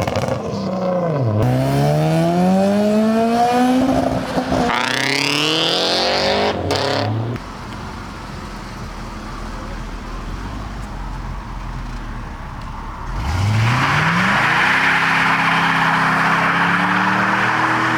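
Car engines revving hard as cars accelerate away, the engine pitch climbing in two long pulls with a break between them. It goes quieter for about six seconds in the middle. Then another engine's pitch rises and holds a steady high note with a loud rushing hiss over it.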